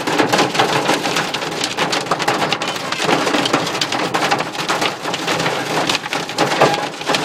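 Hail pelting the car's body, a dense, unbroken clatter of impacts heard from inside the car.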